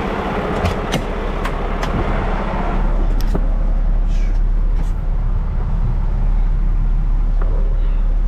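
Stone slinger truck's engine running with a heavy low rumble. About three seconds in, the higher hiss falls away and the low rumble grows stronger.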